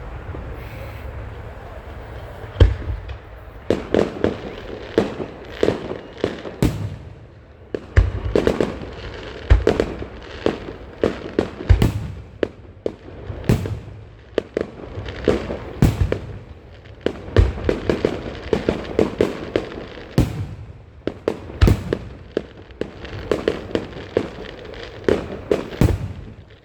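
Aerial fireworks display: many shells bursting with sharp bangs, often several in quick succession, over a continuous low rumble of distant launches and echoes.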